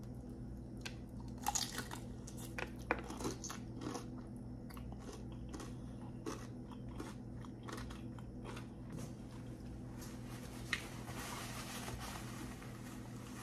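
Close-miked crunchy bites into a sticky, sauce-glazed fried chicken wing, then chewing. Crisp crackles come thick in the first few seconds, loudest in two bites early on, and give way to softer, wetter chewing.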